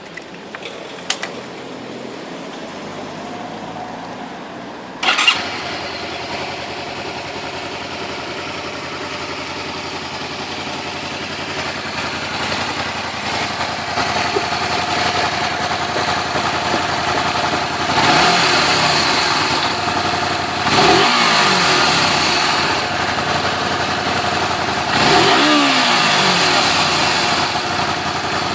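Honda VTR 250's V-twin engine starting: a few clicks and a low hum, then the engine fires with a sudden loud burst about five seconds in and settles to a steady idle. In the second half the throttle is blipped three times, each rev rising sharply and falling back to idle.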